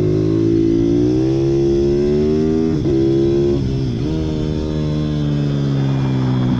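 Pit bike's small single-cylinder engine revving, its pitch climbing for the first three seconds, then dipping sharply twice around the middle as the throttle is shut and reopened, and sinking slowly toward the end.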